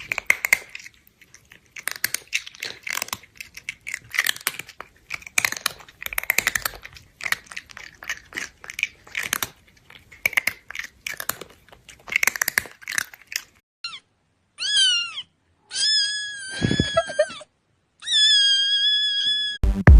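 A cat crunching food in quick, irregular crunches, then meowing several times, the last two meows long.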